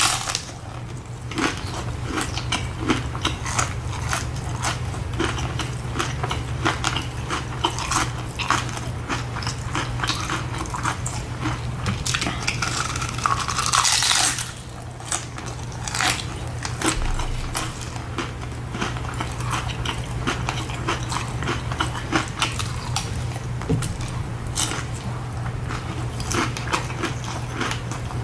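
Close-up eating sounds of a person biting and chewing tacos: many small wet clicks and crunches, with a louder rustling patch about halfway through. A steady low hum runs underneath.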